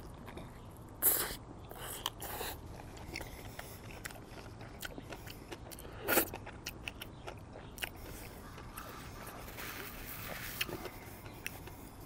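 A person biting into and chewing a mouthful of Burger King Whopper: wet chewing with many small clicks and smacks, and a few louder sounds about a second in and about six seconds in.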